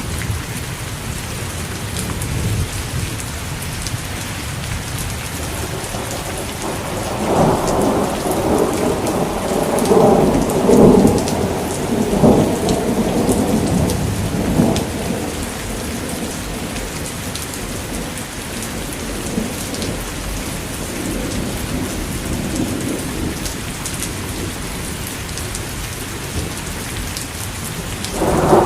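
Steady heavy rain with thunder: a long roll of thunder rumbles in about a quarter of the way through and dies away around halfway, and another roll begins right at the end.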